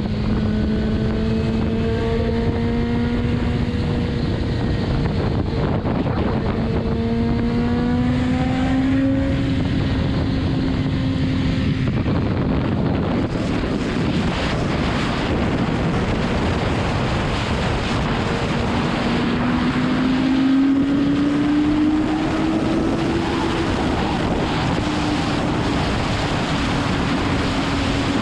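BMW S1000RR's inline-four engine running at highway speed, heavily overlaid by wind rushing over the microphone. The engine note rises gradually, is lost in the wind about halfway through, then climbs again and levels off.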